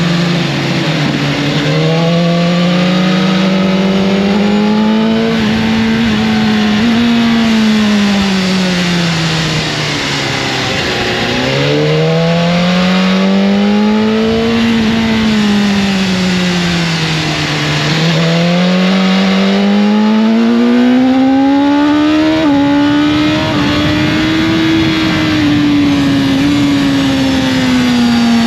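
Motorcycle engine running continuously under load, its pitch climbing and falling in long, smooth sweeps about three or four times as it accelerates and slows.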